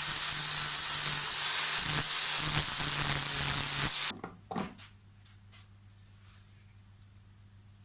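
A power tool runs with a loud, hissing noise and a steady low hum, then is switched off about four seconds in, its pitch falling briefly as it spins down. Afterwards come a few faint clicks over a low hum.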